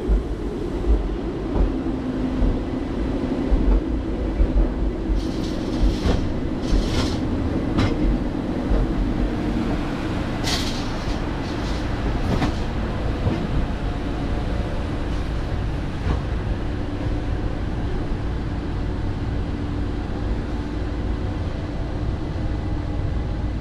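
Berner Oberland Bahn train running along the track, heard from on board: a steady low rumble with repeated knocks of the wheels over rail joints, more frequent in the first half, and a few brief high squeaks about five to twelve seconds in.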